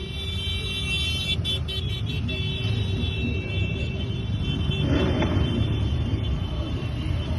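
Motorcycle engines running in a steady low rumble, with a faint high steady tone above them.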